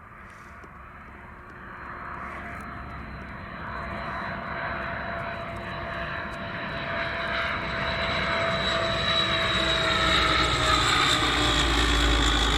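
The twin Rolls-Royce Dart turboprop engines of a YS-11 aircraft, growing steadily louder as it approaches. A high whine sits over the engine noise, with a lower tone that slowly falls in pitch.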